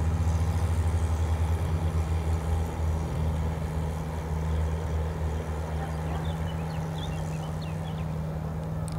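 Amphibious car's engine running under power as the car drives through the water, a steady low drone that starts just before and eases a little after the first few seconds as the car moves away.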